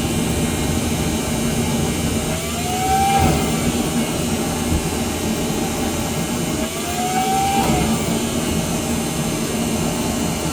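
Shop dust collector, newly piped through a cyclone separator into a drum, switched on by remote and running steadily with a loud rush of air. Two short rising whistles come through it, about a third of the way in and again past the middle.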